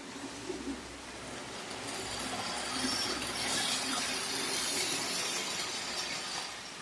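Tyco HO-scale diesel model locomotive running on the layout's track, its motor and wheels giving a steady rattling hum that grows louder as it nears and eases off near the end.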